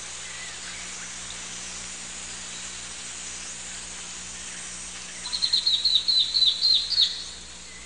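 A bird sings a rapid run of about a dozen short, downward-slurred notes starting about five seconds in and lasting about two seconds. Under it runs a steady high forest hiss.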